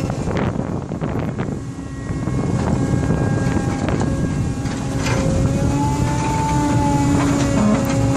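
Engine of an excavator dredger running steadily, a low rumble with a held whine over it that wavers slightly in pitch.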